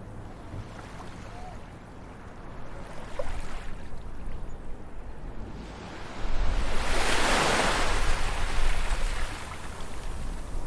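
Ocean waves washing in: a steady surf hiss with a wave breaking about three seconds in and a larger one swelling and crashing in the second half, then easing off.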